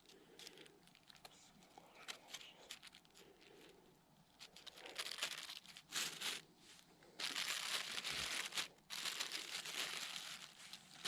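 Crinkling and rustling of something being handled, scattered and soft at first, then denser and louder from about seven seconds in.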